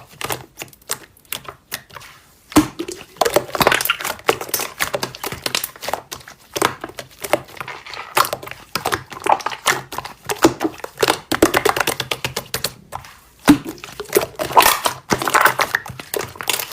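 Slime being squeezed and worked by hand, giving off rapid, irregular clicks, pops and crackles, with brief pauses about two seconds in and again near the end.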